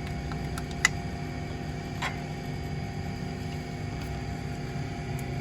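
A car engine idling with a steady hum, with a sharp click a little under a second in and a softer click about two seconds in.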